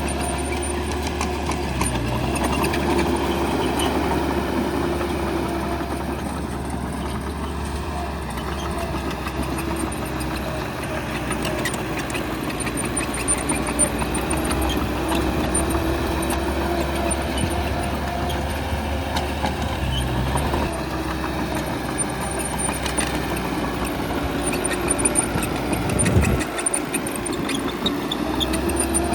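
Bulldozer's diesel engine running steadily, its pitch rising and falling a little with the load, with tracks and machinery clatter throughout and a single sharp knock near the end.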